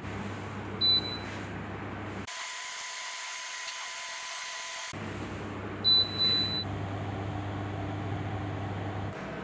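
Two short, high electronic beeps, about five seconds apart, over a steady low hum and machine noise. For a stretch in the middle the hum drops out and a higher hiss takes its place.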